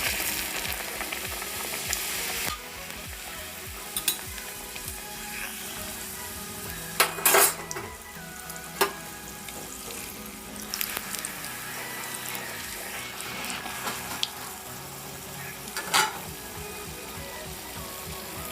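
Maida dough bucket shell, moulded around a glass, deep-frying in hot oil with a steady sizzle, loudest in the first two seconds or so. A few sharp clinks of a utensil against the pan or glass come at intervals.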